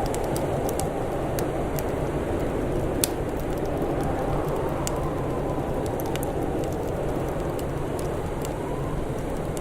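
Wood fire crackling, with scattered small pops and one sharper pop about three seconds in, over a steady low rushing background.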